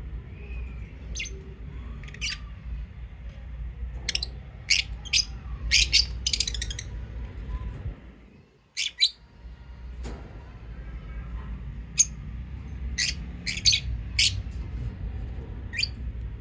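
Lovebirds chirping: short, sharp, high chirps that come in quick clusters, over a steady low hum.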